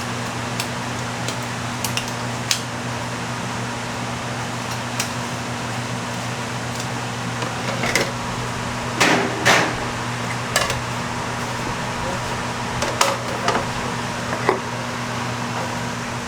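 Steady hum of an electric fan running, with scattered knocks and clatter of kitchen work on top, loudest in a short burst about nine to ten seconds in.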